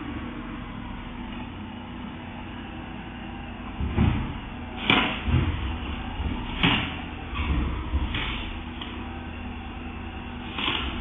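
A run of sharp knocks and thuds, about half a dozen spread over several seconds, over a steady low rumble. The sound is thin and cut off at the top, like a low-quality recording microphone.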